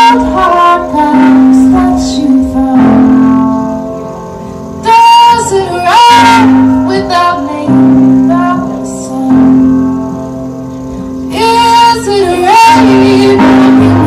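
Music: a woman singing in phrases with a band, over guitar.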